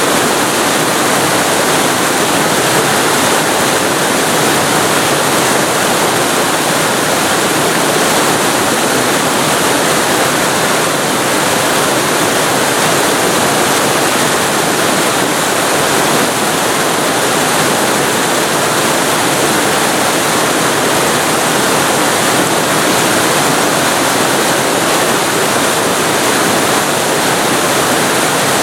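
Waterfall heard from very close to the falling water: a loud, steady, unbroken rush of pouring water.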